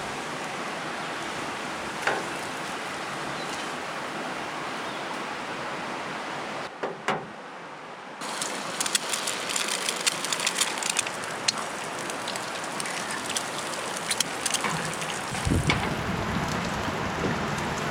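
Eggs frying in a pan: a steady sizzle, then after a short break a busier sizzle with many crackles and pops. A low rumble comes in near the end.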